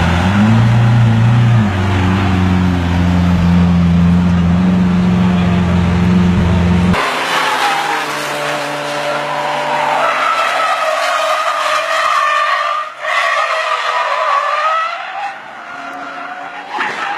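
A car engine runs with a steady low hum for about seven seconds, then cuts off abruptly. Tyres squeal in a long skid with a wavering pitch, and a sharp knock comes near the end.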